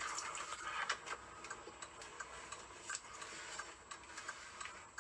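A car's turn-signal indicator ticking inside the cabin, faint and regular at roughly one and a half ticks a second.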